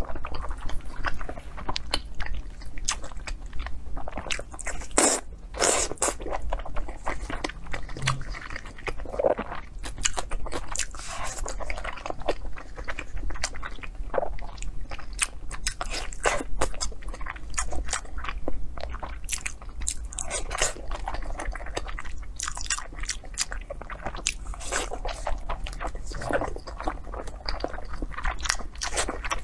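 Close-miked chewing and biting of braised pork belly, with irregular mouth clicks and smacks.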